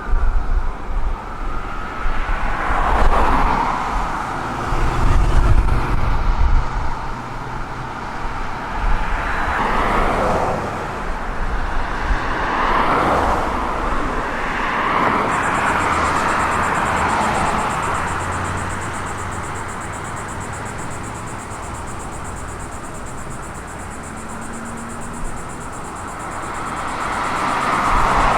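Vehicles driving past, their engine and road noise swelling and fading several times, with the last of an emergency siren trailing off at the start.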